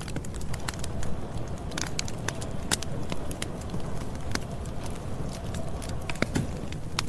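Campfire crackling: irregular sharp pops and snaps over a steady low rumble of the fire.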